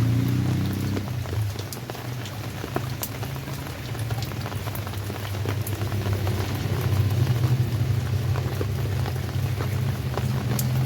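Rain falling steadily, with individual drops ticking sharply and irregularly over a dense hiss, and a steady low rumble underneath.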